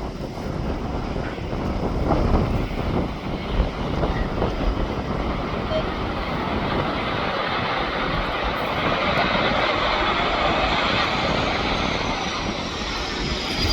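Airliner engines, a rushing roar that grows louder through the second half, with a high whine gliding down in pitch near the end. Gusts of wind buffet the microphone throughout.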